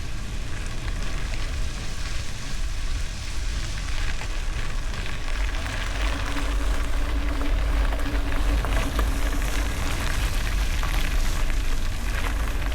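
Wind rumbling on a bicycle-mounted camera's microphone over the crackly crunch of tyres rolling on gravel.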